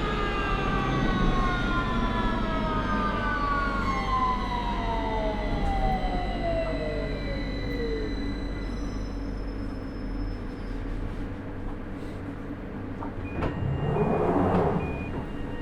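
London Underground 2009 Stock traction motors whining as the train brakes into a station. Several tones glide steadily down in pitch and die away about eight seconds in, leaving a low running rumble as it slows to a stop. A short noisy burst comes near the end.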